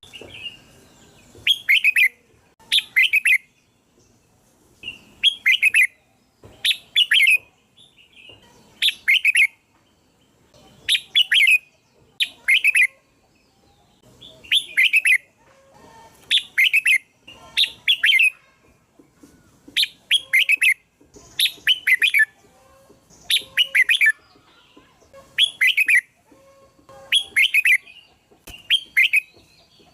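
Red-whiskered bulbul singing: short, bright phrases of a few quick notes, repeated about every one to two seconds.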